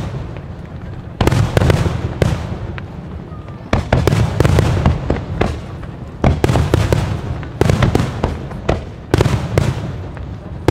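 Fireworks display: a string of loud aerial shell bursts, a new bang or short volley every second or two, each trailing off into crackling over a deep rumble.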